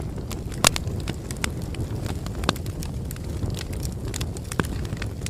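Bonfire crackling: irregular sharp pops and snaps of burning wood over a steady low rumble of flames, with one louder pop early on.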